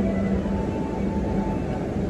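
E6-series Shinkansen train running, heard from inside the car: a steady rumble with a low hum and faint higher whines over it.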